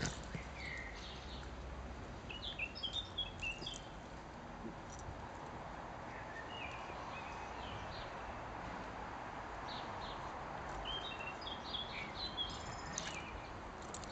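Small birds chirping in two short bursts of quick high calls over a steady outdoor hiss.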